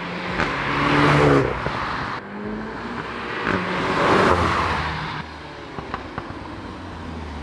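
Seat Leon Cupra 300's turbocharged 2.0-litre four-cylinder accelerating hard as the car drives past, its engine note swelling to a peak about a second in and again about four seconds in, then falling away.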